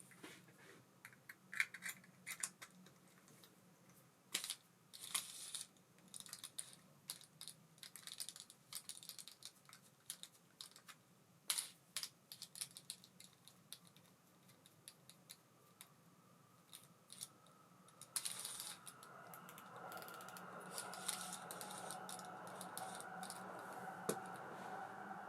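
Light clicks and ticks from a small metal baitcasting reel being handled, the ABU Ambassadeur 2500C De Luxe. About two-thirds of the way in, a steady faint whir starts as the reel spins freely, tuned with minimal oil for the least resistance.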